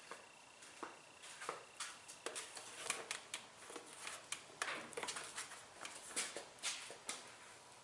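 Irregular light clicks and taps of hand work on a top-load washing machine as it is being dismantled, coming several a second and getting busier after the first second or so.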